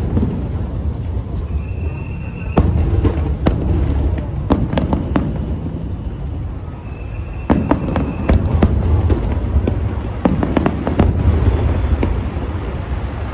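Aerial fireworks shells bursting in quick clusters: sharp bangs over a continuous deep rumble of booms.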